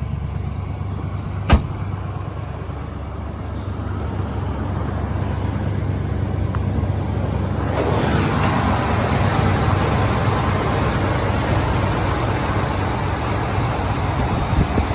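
1964 Cadillac Eldorado's 429 V8 idling steadily after a cold start. A single sharp knock comes about a second and a half in. About halfway through, the running gets louder and fuller.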